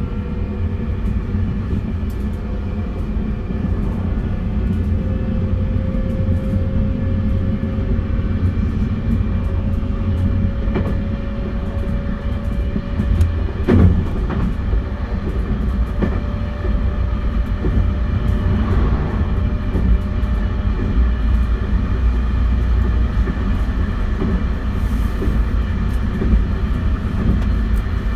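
271 series electric train running, its Hitachi SiC inverter and traction motors giving a thin whine that climbs slowly in pitch as the train gathers speed. Under it is a steady rumble of wheels on rail with scattered clicks, and there is one sharp knock about halfway through.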